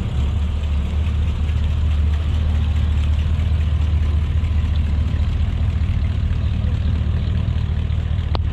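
A car engine idling steadily with a deep, low rumble. A single sharp click comes just before the end.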